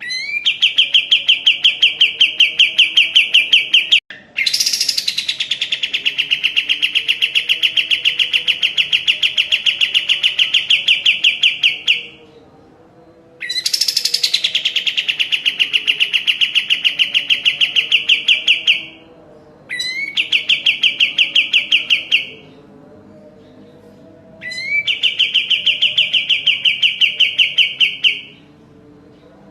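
Kapas tembak songbird singing long, rapid trilled phrases, five in all with short pauses between. Each phrase opens with a quick upward sweep and then runs as a fast, even trill of sharp notes.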